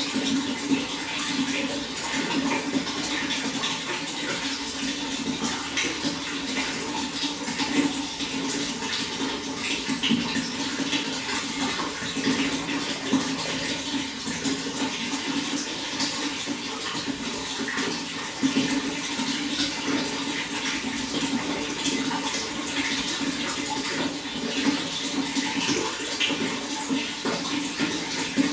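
Running water flowing steadily, with a constant low rushing and many small splashes and gurgles throughout.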